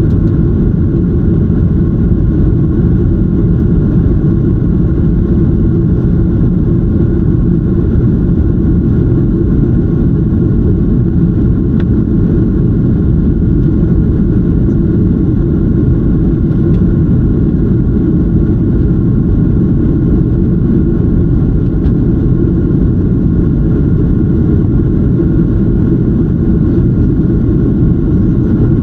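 Steady jet airliner cabin noise: a constant low rumble of the engines and airflow heard from inside the passenger cabin, with faint steady tones above it.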